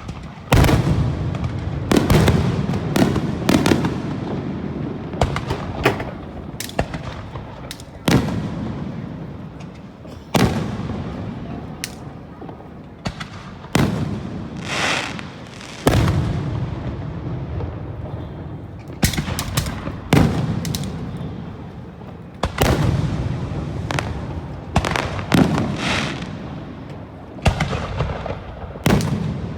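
Aerial fireworks going off in a steady barrage: sharp bangs of shells bursting every second or two, each followed by a long rolling rumble and crackle.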